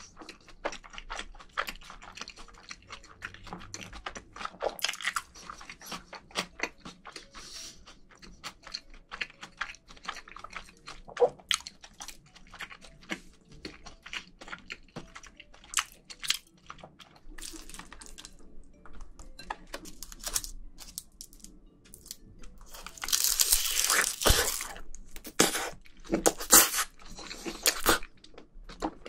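Close-miked chewing of rice and marinated crab, with many small wet mouth clicks. About 23 seconds in, a louder noisy stretch lasts about two seconds, and sharper bites follow near the end.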